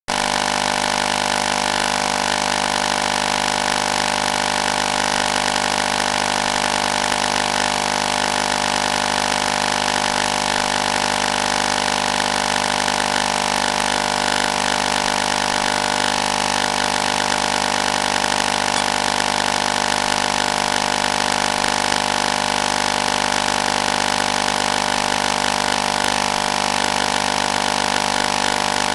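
A steady, unchanging hum made of many fixed tones, strongest near 1 kHz, over a hiss.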